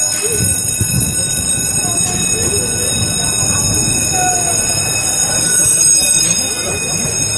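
Heritage train running: a steady, even rumble of the train in motion, with a thin, steady high whine over it.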